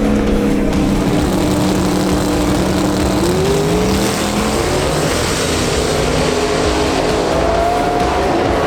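Drag race car engine running hard at full throttle, its pitch climbing about three seconds in and again near the end.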